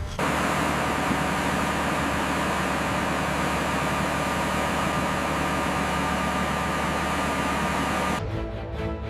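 Steady mechanical drone of heavy salvage machinery running under load, an even rushing noise with a low hum, starting abruptly and cutting off suddenly near the end, where music comes in.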